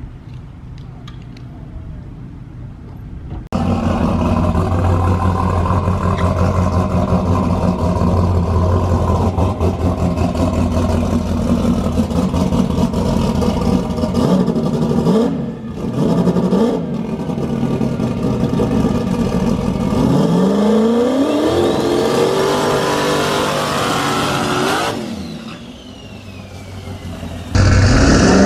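Drag race car engine running hard at high revs, coming in suddenly a few seconds in and held steady for about ten seconds, typical of a burnout. After two brief breaks, the revs climb again for several seconds, drop away, and the engine comes back loud near the end.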